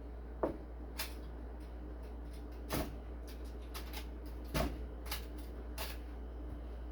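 Kitchen handling noises: about six short knocks and clicks spaced irregularly over several seconds, from ribs and kitchenware being set into a foil-lined pan, over a steady low hum.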